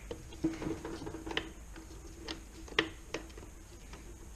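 Irregular metallic clicks and light knocks, about five in all, from the internal parts of a stripped VW 085 manual gearbox being moved and tried by hand. The sharpest click comes just under three seconds in.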